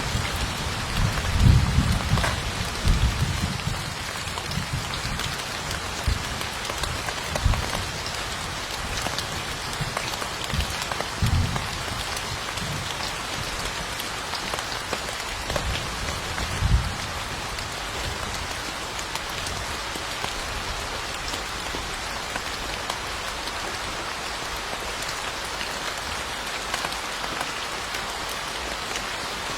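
Steady rain falling, an even hiss. There are a few brief low thumps in the first half.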